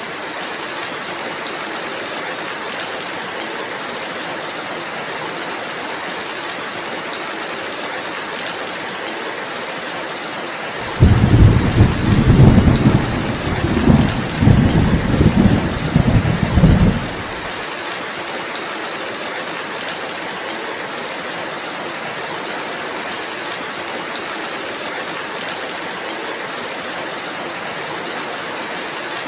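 Steady rain falling, with a loud rumble of thunder setting in about a third of the way through. The thunder swells in several waves for about six seconds, then cuts off abruptly, leaving only the rain.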